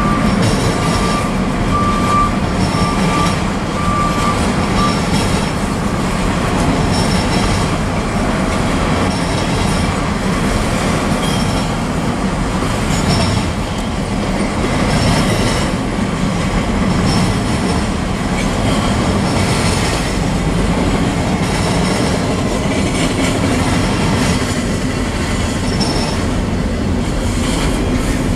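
Double-stack intermodal well cars rolling past: a steady rumble of steel wheels on the rails, with a thin, on-and-off squeal in the first few seconds.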